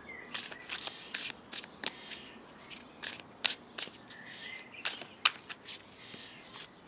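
A deck of tarot cards being shuffled by hand: a run of quick, irregular card clicks and flicks.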